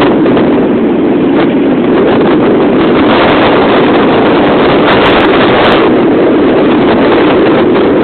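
Strong wind blowing across the microphone on a sailboat under sail: a loud, steady rushing noise with no break.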